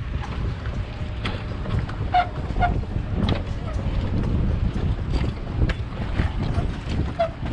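Motorboat engine and water noise under heavy wind buffeting the microphone, a steady low rumble.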